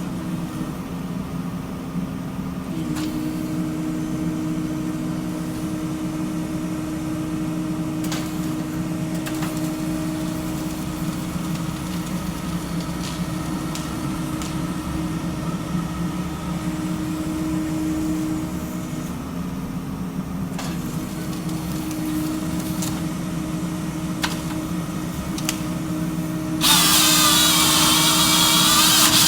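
Small forestry harvester (0.25-class excavator base) running steadily, its engine and hydraulics holding an even drone. Near the end a sudden much louder noise reaching high up comes in and lasts under three seconds.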